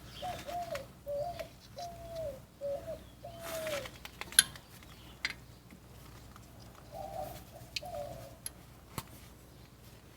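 A dove cooing, a run of about six short, similar notes over the first four seconds, then two fainter ones later. A few sharp clicks of handled hardware come in between.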